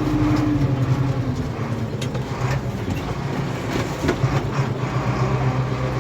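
Tractor engine running steadily, its note dropping in the first second or so and then holding, with a few sharp knocks.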